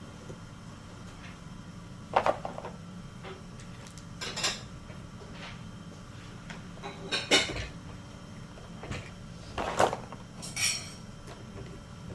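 A handful of separate clunks and light clatters of hard objects being handled and set down, spaced a couple of seconds apart over a steady low background.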